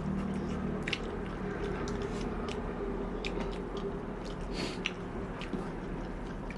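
People chewing and eating, with scattered wet smacking clicks over a steady low hum.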